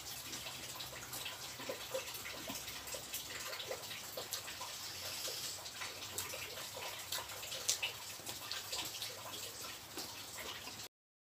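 Wet chewing and mouth sounds of a person eating rice and fried catfish by hand, many small clicks over a steady hiss of light rain. The sound cuts out to silence just before the end.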